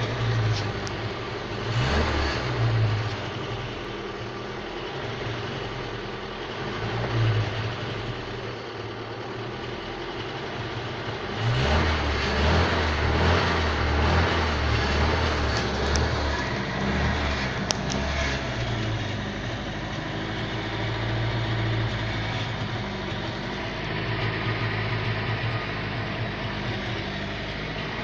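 Volga car engine running on a test run: idling steadily, with the revs raised briefly a couple of times and held higher for a few seconds about halfway through.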